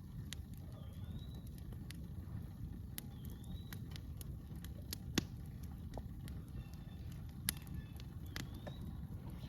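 Wood campfire crackling, with scattered sharp pops, the loudest about five seconds in and again about seven and a half seconds in, over a low rumble. A bird's short rising whistle comes back a few times.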